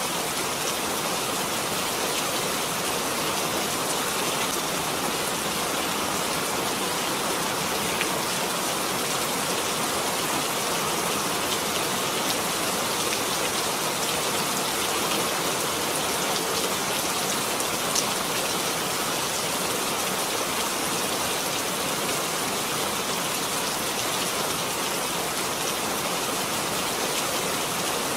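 Steady rain falling, an even hiss without letup, with a couple of sharper drop hits about a third of the way in and again after the middle.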